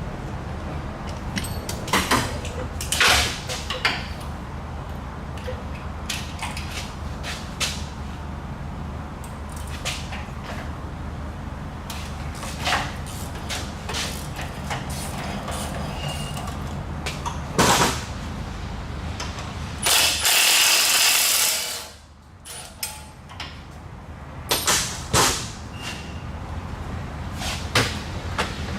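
Hand-tool work on exhaust manifold bolts: scattered metallic clicks and knocks from wrenches and sockets over a steady low shop hum, with one loud rushing burst lasting about a second and a half some twenty seconds in.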